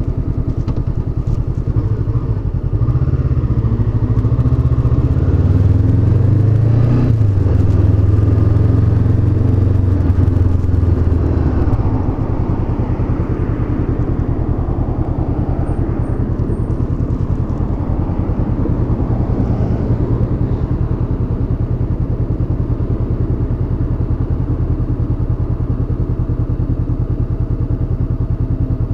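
Honda CB500X's parallel-twin engine running under way, pulling harder with rising revs from about three seconds in, then easing back about twelve seconds in to steady cruising.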